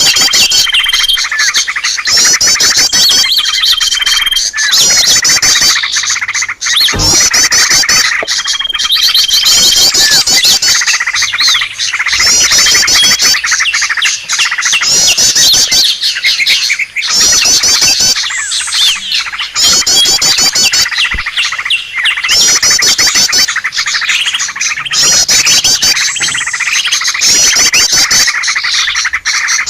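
Dense, noisy chorus of many small birds chirping, squawking and trilling at once: a bird-lure (pikat) recording for drawing in wild birds, with rapid trill phrases repeating about every second.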